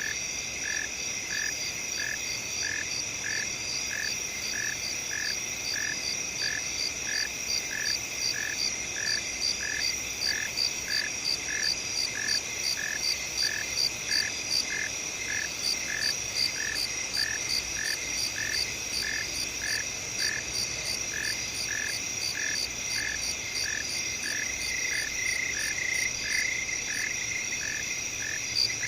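Night chorus of crickets and other field insects: steady high trills under a regular chirp that repeats a little over once a second, with a faster pulsing call higher up.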